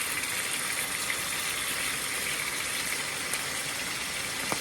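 Duck breasts sizzling in hot oil in a frying pan: a steady hiss, with a single sharp tick near the end.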